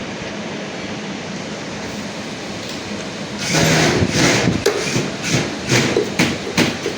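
Automatic washing machine drum turning on a worn drum bearing: a steady running noise, then from about three and a half seconds in a louder, uneven rumble with rapid knocks, the sign of the bad bearing.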